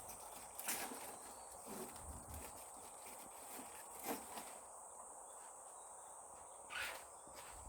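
Steady high insect chirring outdoors, with a few short scuffs and knocks scattered through it, the loudest near the end.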